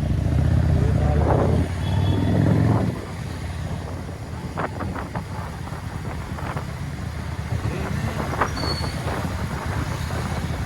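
Traffic noise heard from a moving motorbike: a heavy low rumble for about the first three seconds, then lighter, steady road and engine noise with a few brief high tones.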